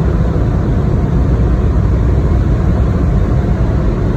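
Car wash air dryers blowing steadily on the vehicle, heard from inside the cabin as a loud, even rush with a deep rumble.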